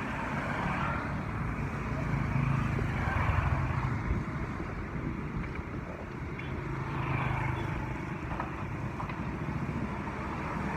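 Vehicle engine running steadily on the move, with road and wind noise; it grows louder about two to four seconds in and swells again near seven seconds.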